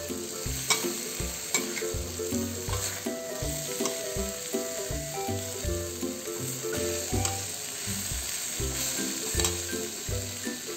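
Long beans and chayote strips sizzling in hot oil and fried spice paste in a stainless steel wok, stirred with a metal spatula that clicks and scrapes against the pan now and then.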